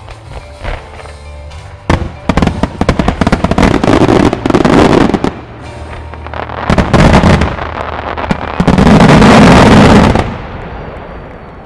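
Aerial fireworks: a few bangs, then from about two seconds in a dense run of shell bursts and crackling that builds to a loud continuous volley, cutting off near the end and dying away.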